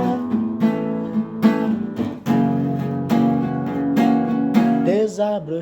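Acoustic guitar strumming chords in a song's instrumental passage, the chords struck again every half second or so.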